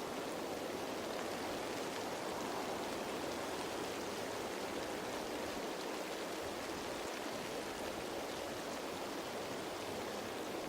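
Steady rain falling on leaves, an even, unbroken hiss of drops with no single drop standing out.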